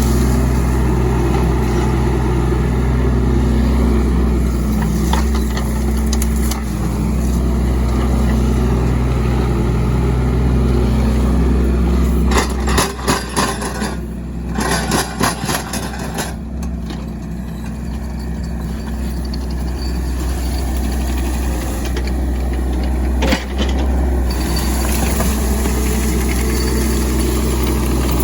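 Mini excavator's diesel engine running steadily at working speed. About halfway through there is a run of sharp cracks and knocks, and the engine note drops for a few seconds.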